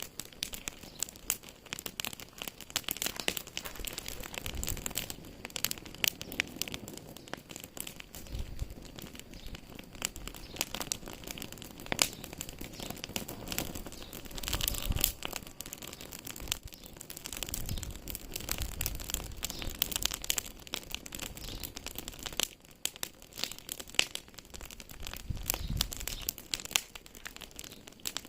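Wood fire crackling in a fireplace: dense, irregular crackles and pops, with a low rumble now and then.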